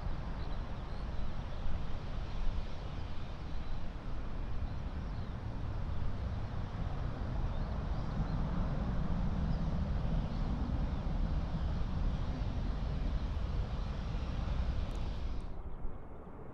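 Jet airliner engine noise at an airport: a steady rumbling rush that swells for a few seconds mid-way, with wind buffeting the microphone. The higher part of the sound drops away suddenly near the end.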